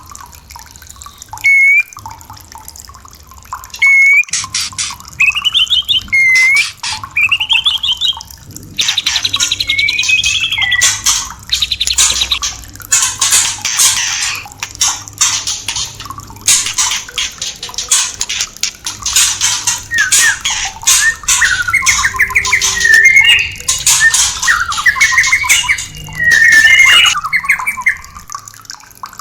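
White-rumped shama (murai batu) singing: a few short rising whistles first, then from about nine seconds a long run of rapid harsh chattering notes, turning into varied warbling phrases later.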